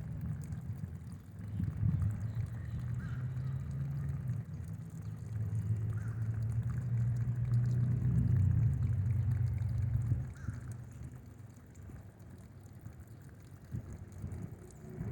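Low rolling thunder that builds over several seconds and dies away about ten seconds in, with a few faint, short bird chirps now and then.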